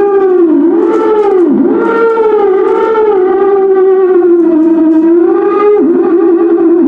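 Homemade theremin played through an Orange amplifier: one loud electronic tone with a swooping, siren-like pitch that dips and rises several times, holds higher in the middle, then breaks into a fast warble near the end.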